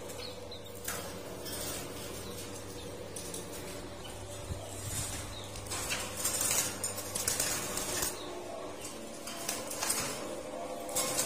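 Caged Asian koel moving about its cage: scattered soft rustles and clicks, with a louder flurry of rustling and wing flapping about six to seven seconds in, over a steady low hum.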